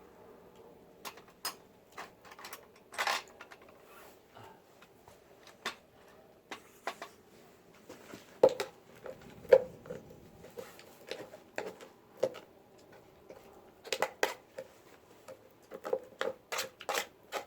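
Eating utensils clicking and knocking against dishes at an irregular pace, in scattered sharp taps, with the loudest knocks about halfway through and a quick run of them near the end.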